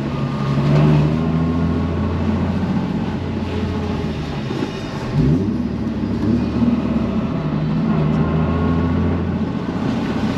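Nissan 350Z's V6 engine running while the car is driven, its pitch rising and falling with the throttle. About five seconds in the level dips briefly, then the pitch sweeps quickly up.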